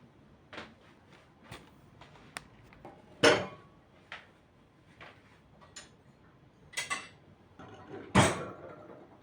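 Kitchen clatter of dishes and utensils being handled: a scatter of light clinks and knocks, with two louder knocks about three seconds and eight seconds in.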